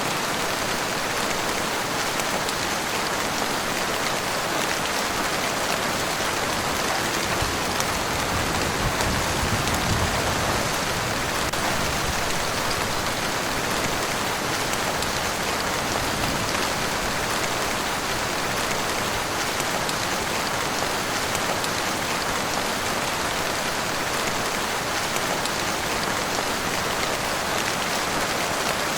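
Heavy rain pouring steadily, with a dense, even hiss of drops hitting surfaces. A faint low rumble swells briefly about a third of the way in.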